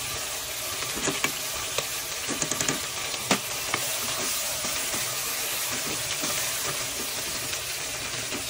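Spiced tomato masala sizzling in oil as a wooden spatula stirs coconut powder through it. Short knocks and scrapes of the spatula against the pot come and go over a steady frying sizzle.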